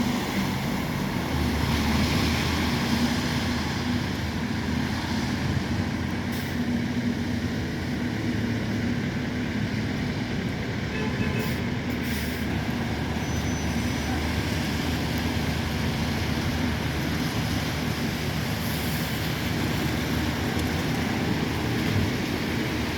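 Scania N270UD OmniCity double-deck bus's diesel engine running steadily, a low even hum.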